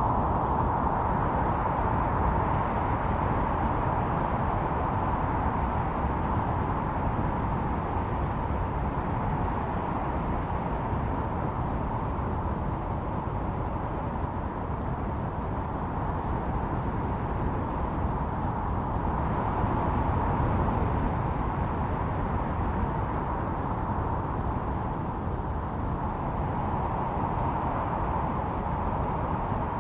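Howling blizzard wind: a steady rushing noise with a hollow whistling note that swells and eases a little, strongest near the start, about two-thirds through and near the end.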